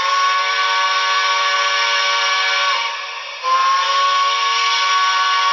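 Recorded steam locomotive whistle played by the sound decoder of a Trix HO Southern Pacific Berkshire model locomotive: a chime whistle of several notes at once, held long, breaking off about three seconds in and sounding again half a second later.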